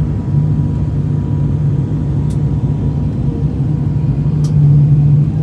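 Aircraft engine droning steadily in flight, a low steady hum that grows slightly louder near the end, with a couple of faint ticks.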